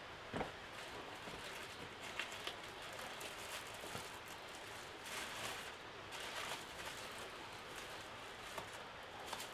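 Steady rain with scattered drips and taps, a sharper tap about half a second in and brief heavier swells near the middle.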